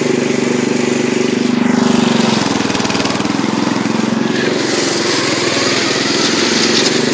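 Briggs & Stratton engine of a White racing lawn tractor running steadily at a fast idle while burning off a Seafoam treatment. The note shifts slightly about two seconds in.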